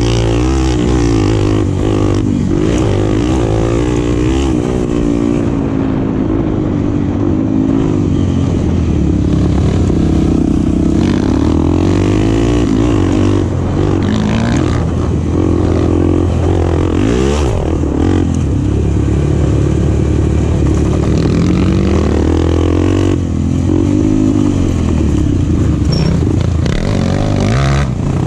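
Enduro motorcycle engine running hard. Its note rises and falls again and again as the throttle opens and closes.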